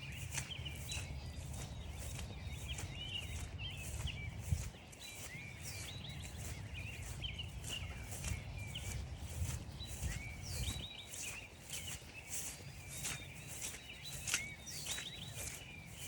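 Footsteps crunching through frozen, frost-stiff grass at an even walking pace, about two steps a second, while songbirds chirp and call, with a few quick falling note series near the end.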